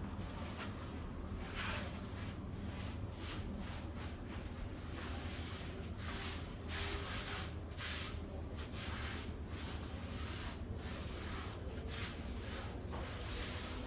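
Irregular rustling and scraping handling noises, short swishes every second or so, over a steady low hum.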